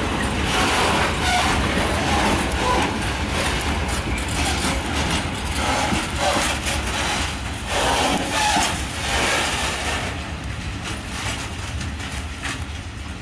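Freight train of PKP Cargo Eaos open wagons rolling past at speed: a steady rumble of wheels on rail with scattered knocks and a few short wheel squeaks, easing off slightly near the end.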